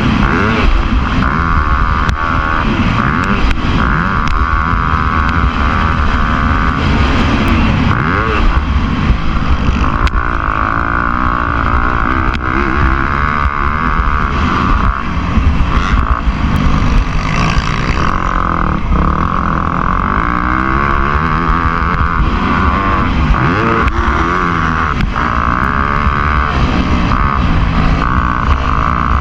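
Motocross bike engine running hard, its pitch rising and falling over and over with the throttle.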